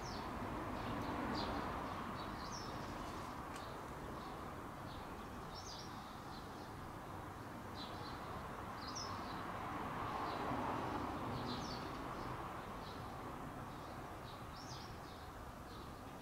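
Small birds chirping in short, high calls, many times, over a steady outdoor background rumble that swells twice.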